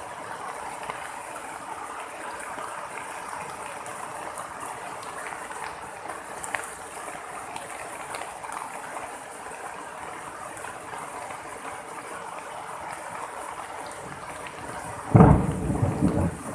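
Steady heavy rain falling, with a few scattered drip ticks. About 15 seconds in, a sudden loud low clap and rumble of thunder breaks over it for about a second.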